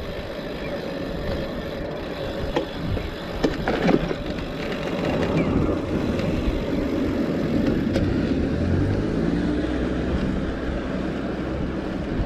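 Steady wind rumble on the microphone of a moving bicycle, with a motor vehicle passing whose engine note rises and falls about halfway through.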